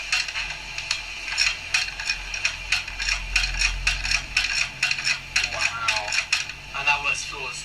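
Hard plastic clicking and clattering: a quick, uneven run of sharp clicks, several a second, as a 3D-printed rotation part is worked into a plastic Nerf blaster.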